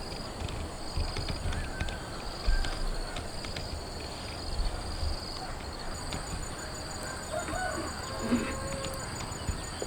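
Outdoor nature ambience: a few short bird calls over a steady high pulsing chirr and background noise, with occasional low thumps.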